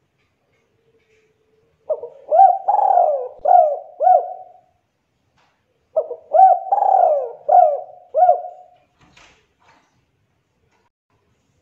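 Spotted dove cooing: two phrases of about five rising-and-falling coo notes each, a little over a second apart between phrases.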